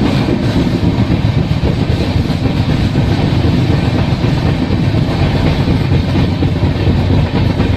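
Passenger express train running on the rails: a loud, steady rumble and rattle of the coaches, even throughout.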